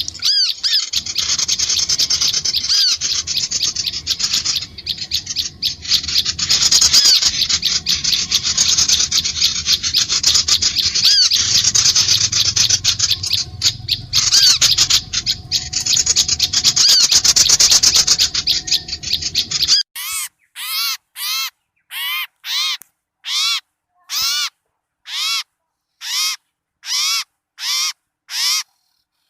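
Bird-lure recording of many small birds chattering and calling at once, a dense, noisy din of overlapping chirps. About two-thirds of the way in it gives way to one harsh call repeated evenly, a little faster than once a second.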